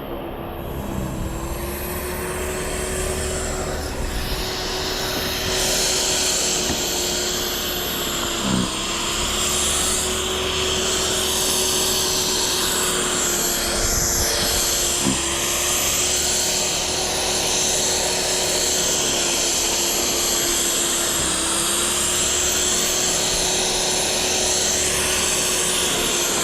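Small engine running steadily, its pitch dipping briefly three times as if loaded, over a steady mechanical rush.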